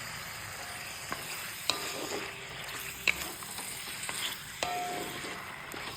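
Chicken sizzling steadily as it fries in a kadai with spiced onion masala while it is stirred. The stirring utensil knocks against the pan several times, and some knocks ring briefly.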